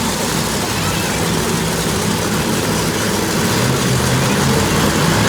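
Hot Wheels 5 Alarm monster truck's engine running hard, revving higher and a little louder over the last couple of seconds.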